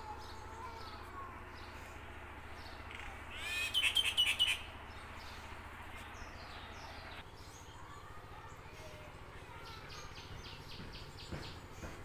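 Wild birds calling in the treetops: a loud burst of six or seven quick chirps about three and a half seconds in, a run of short high notes near the end, and fainter scattered calls between. A low steady hum lies underneath and drops away about halfway through.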